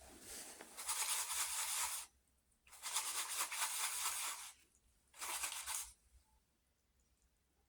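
Pencil scratching across paper in three long shading strokes, the first two about two seconds each and the third shorter, with short pauses between.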